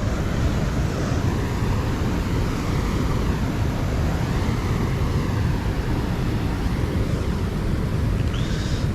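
Wind buffeting the microphone, a steady low rumble, with a short high chirp near the end.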